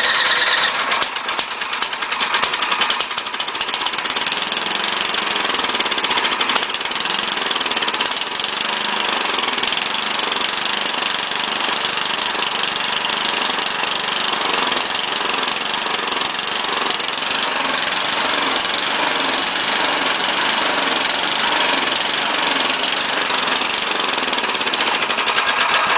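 A 2001 Mastercraft snowblower's 10.5 hp Tecumseh Snow King engine running steadily after a pull start, not running too well: the owner puts it down to a carburetor in need of cleaning on the 12-year-old machine.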